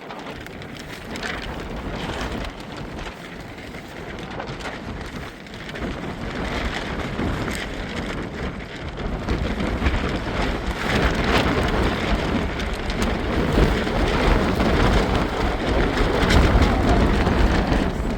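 Heavy rain falling, with wind, building steadily louder, with a low rumble of wind buffeting the microphone.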